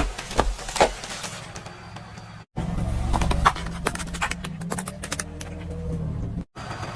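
Car engine running low under a series of sharp cracks and crunches as its tyres crush crunchy objects, in several abruptly cut clips.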